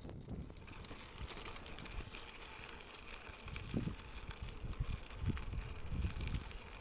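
A bicycle rolling along a trail, with wind gusting on the microphone in low rumbles, a few light rattles and clicks, and a steady faint high hiss.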